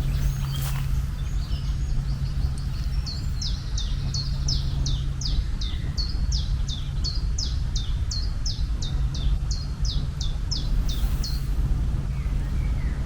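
A bird calling a long run of quick, downward-sweeping high chirps, about three a second, starting a couple of seconds in and stopping near the end, over a steady low rumble.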